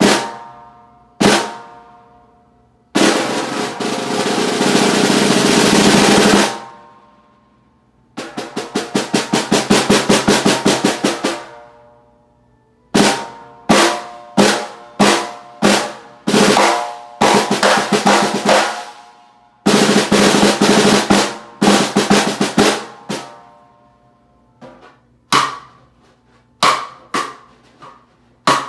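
Bird's eye maple 5.5 by 14 inch snare drum being played: two single hits, a swelling buzz roll, then a roll of rapid even strokes, followed by a run of short rolls and accented hits that ends in softer single strokes.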